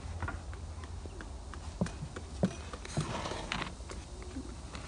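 A few sharp knocks and clatters of a cooking pan and wooden board being handled as the flipped semolina flatbread is set back over the wood fire, the loudest about two and a half seconds in, followed by a brief rustling scrape.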